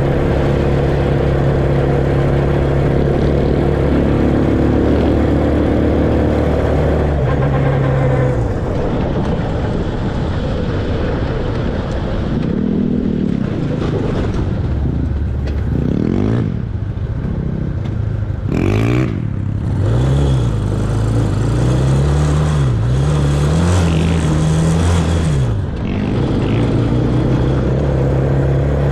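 Off-road vehicle engine running at a steady pitch, then revving up and down repeatedly through the middle stretch, then settling back to a steady run.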